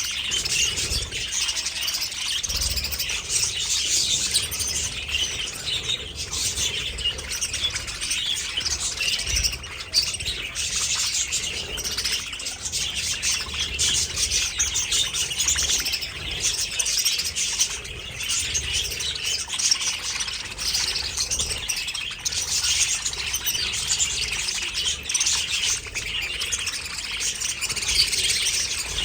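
A flock of budgerigars chattering and chirping, many birds at once in a dense, unbroken high-pitched chatter.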